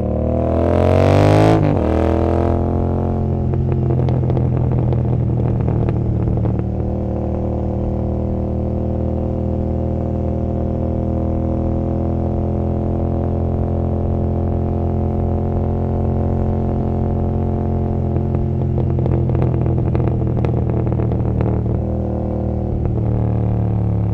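Royal Enfield Continental GT 650's 648 cc parallel-twin engine, breathing through an Emgo cafe muffler. It revs up for the first second or so, then runs at a steady pitch while the bike cruises.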